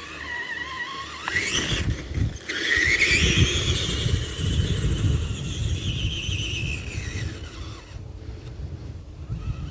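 Tamiya TXT-2 RC monster truck's electric drive whining: the pitch climbs as it accelerates about a second in, drops, climbs again and holds high, then winds down near the end. A rumble of tyres and drivetrain runs underneath.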